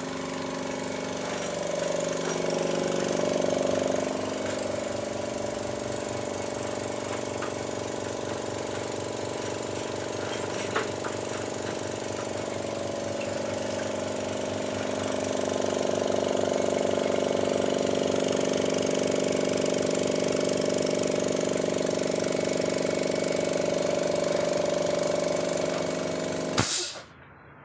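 A machine running steadily with a rapid low pulsing and a steady hum, stopping abruptly near the end.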